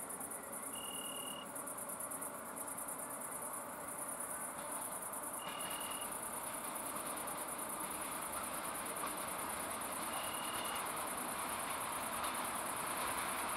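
Crickets chirring in a steady high-pitched drone, with a short high tone repeating about every four to five seconds. Underneath, a faint rumble grows slowly louder.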